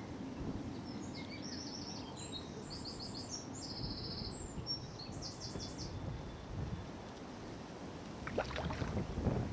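A small songbird singing a run of quick, high repeated notes and trills for several seconds, over a steady low rumble of wind on the microphone. A few sharp clicks come near the end.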